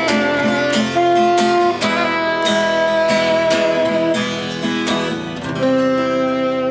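A live band plays an instrumental passage: strummed guitar at about two strokes a second under long held melody notes, with a new held note coming in near the end.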